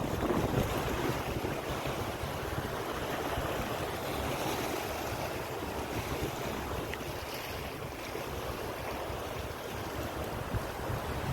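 Sea waves washing onto a beach, a steady rushing, with wind buffeting the microphone in low rumbling gusts.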